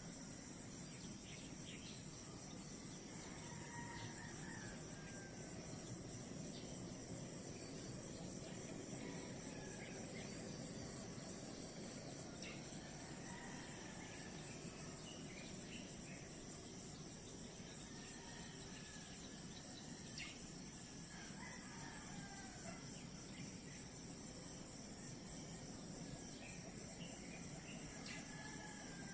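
Crickets and other insects trilling steadily in a high, continuous chorus, with birds calling briefly now and then.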